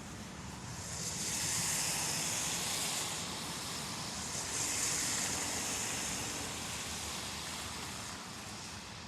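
Road traffic passing: two vehicles go by one after the other, their tyre and engine noise swelling and fading, with a strong hiss.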